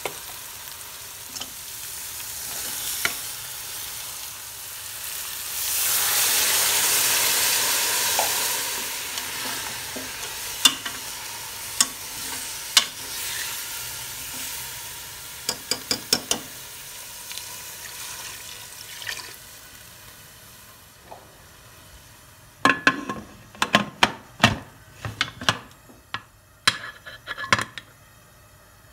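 Oil sizzling as mutton trotters fry in an aluminium pressure cooker, stirred with a steel ladle that clinks against the pot. The sizzle swells loudly about six seconds in and dies down after about twenty. Near the end comes a run of sharp metal clanks as the cooker's lid is fitted.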